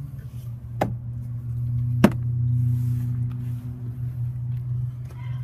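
Ford Transit 350's Power Stroke diesel engine idling with a steady low hum. Two sharp knocks come through it, about one and two seconds in, and the second is louder.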